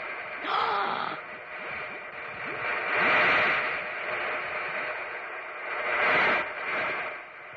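Cartoon sound effect: a hissing, whooshing noise that swells and fades three times, with a few short sliding-pitch bloops.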